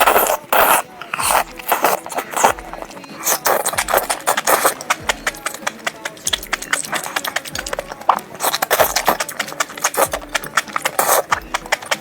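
Close-up crunchy chewing and biting of food, a dense run of sharp crackling clicks, over background music with a steady low beat.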